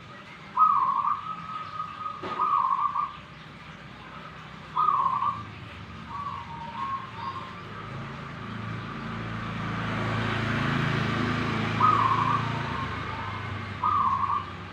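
Zebra dove (perkutut) cooing in short repeated phrases. A broad rumble and hiss swells and fades in the middle, under the calls.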